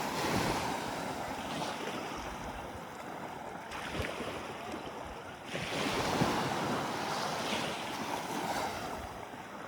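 Sea water washing in surges, with wind on the microphone. It swells louder just after the start and again about six seconds in.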